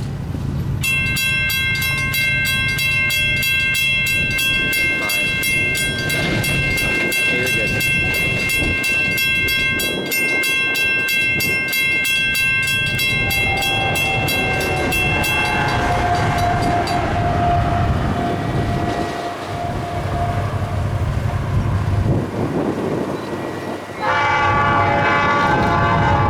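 Diesel locomotive of a sugarcane train sounding its multi-chime air horn in one long blast of about fifteen seconds over the engine's steady rumble and the noise of the train on the rails. A shorter horn blast starts near the end.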